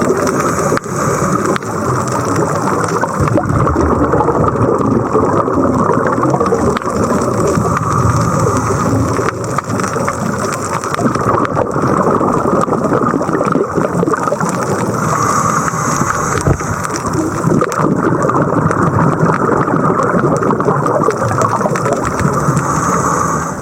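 Scuba diving underwater: a steady rush and gurgle of water and air bubbles.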